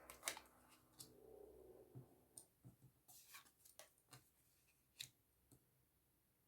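Faint, scattered clicks and soft snaps of Lenormand playing cards being handled and laid down on a table, about a dozen short sounds with the sharpest near the start and about five seconds in.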